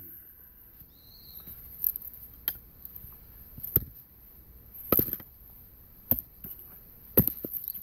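Firewood splitting work: a series of about six sharp, separate knocks of steel and wood striking wood, irregularly spaced.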